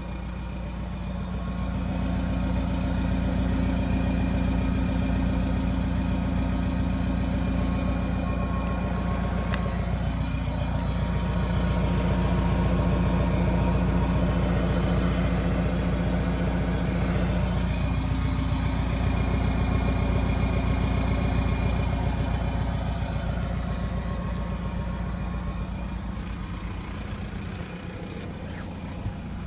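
Mercedes C-Class 220 CDI four-cylinder diesel running through a custom C63 AMG-style exhaust, a steady low exhaust note. It grows louder about two seconds in and fades again near the end.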